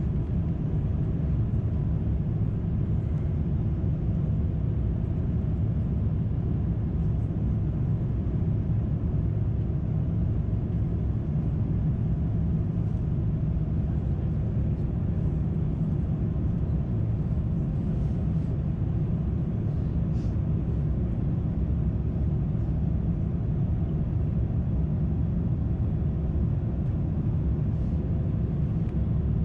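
Steady low rumble of airflow and engines inside the cabin of an Airbus A350-900 in flight, heard at a window seat. The Rolls-Royce Trent XWB engines and the rush of air run at an even level, with no changes.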